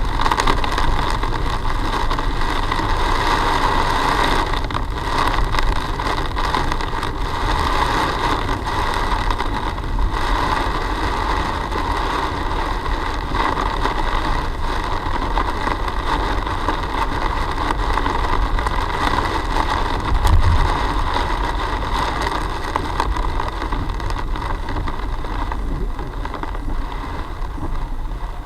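Car driving, heard from inside through a dashcam microphone: steady engine and road noise with a constant hiss. There is one brief low bump about two-thirds of the way through.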